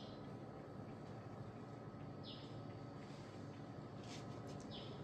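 Faint rainforest ambience: a short high call falling in pitch, repeated about every two and a half seconds, over a steady low hum, with a few brief clicks about four seconds in.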